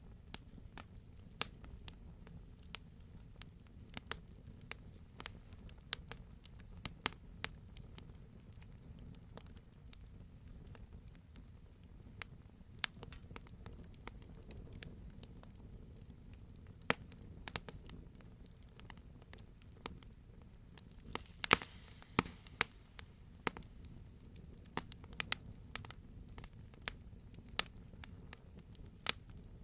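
Campfire crackling: burning wood gives irregular sharp pops and snaps over a low, steady rumble, with a short cluster of louder pops about three-quarters of the way through.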